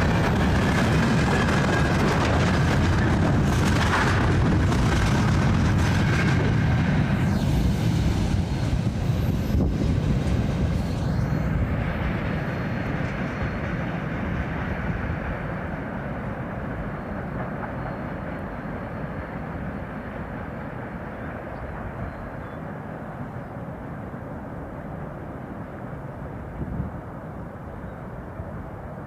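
Freight train wagons rolling past on the rails, a steady rumble that begins to fade about ten seconds in and keeps dying away as the train moves off.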